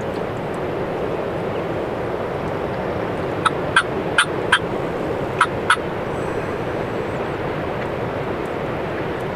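Six short, sharp turkey clucks, a group of four and then a pair, over steady wind noise.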